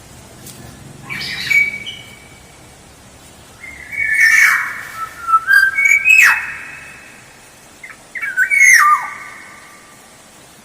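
Kepodang oriole singing in three phrases of fluid whistled notes that glide in pitch. A short phrase comes about a second in, a longer run of notes follows in the middle, and a quick falling phrase comes near the end.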